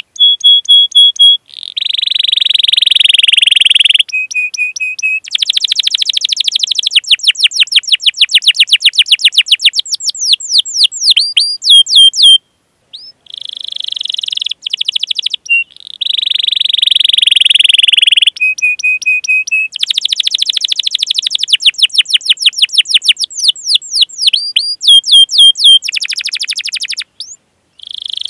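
Domestic canary singing a long rolling song: held buzzy trills, rapid rolls of quick repeated notes and short sharp 'cuit cuit' chirps. After a brief pause about halfway the same run of phrases plays again.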